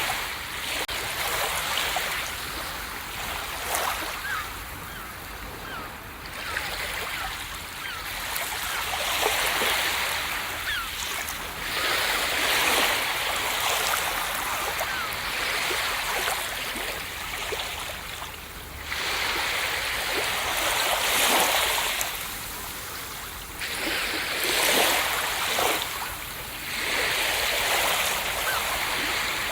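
Ocean surf washing onto a beach: a continuous hiss of foam and water that swells into a louder wash every few seconds, with fizzing as the water runs back.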